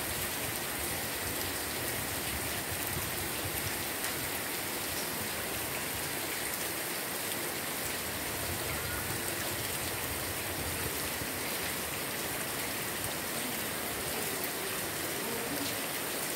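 Steady, even rainfall on grass and leafy garden plants.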